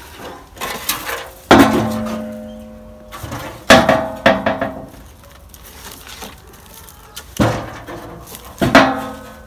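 Five sharp knocks, each followed by a brief ringing, as firewood is handled and struck while a campfire is laid.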